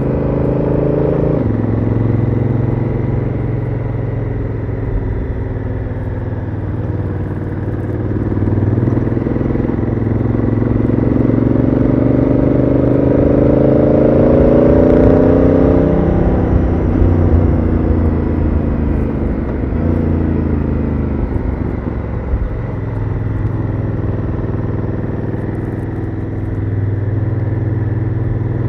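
Honda Africa Twin CRF1000L's parallel-twin engine and stock exhaust, heard onboard while riding. The engine note drops sharply about a second in, climbs steadily through the middle as the bike accelerates, falls back in a few steps as it slows, and rises again near the end.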